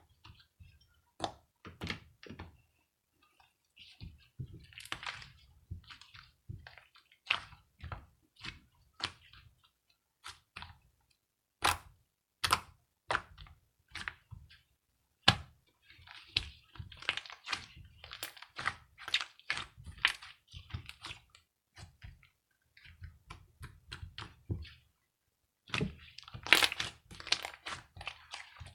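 Slime being squeezed and poked by hand, giving irregular crackling pops and sharp clicks, with a few louder snaps.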